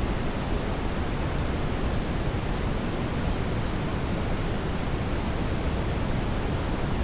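Steady brown noise: an even, deep rushing hiss, strongest in the low end, with no change.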